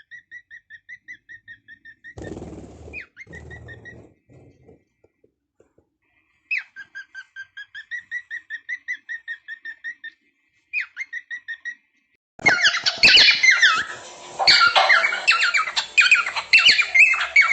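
A parrot whistles fast runs of short, evenly spaced notes, about five a second, several times over, each run opening with a quick upward swoop. From about twelve seconds in, loud squawking and chattering takes over.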